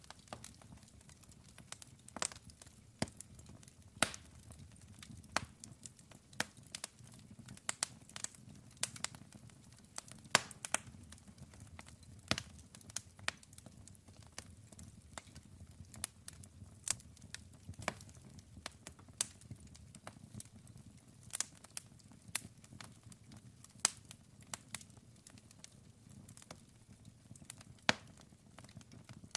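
Wood fire crackling: irregular sharp pops and snaps, several a second, over a low rumble of the burning.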